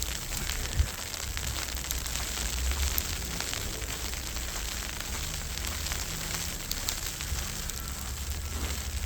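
Snowstorm ambience: wind rumbling on the microphone under a steady fine crackling hiss of falling snow, with one sharp tap a little under a second in.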